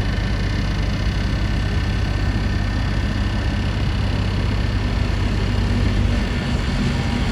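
Heavy diesel engine of earthmoving machinery running steadily, its low note shifting slightly about six seconds in.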